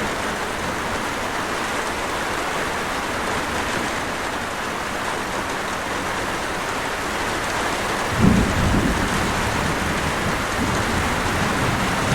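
Steady heavy rain falling on surfaces, with a rumble of thunder rolling in about two-thirds of the way through.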